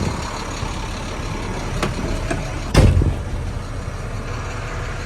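2011 International WorkStar 7400's diesel engine idling, heard from inside the cab, with a couple of light clicks and a single sharp thump a little before the middle.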